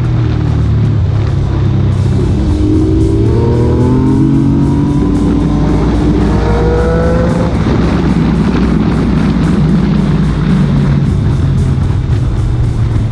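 Motorcycle engines running and accelerating, their pitch rising several times in the middle of the stretch, mixed with background music that has a steady beat.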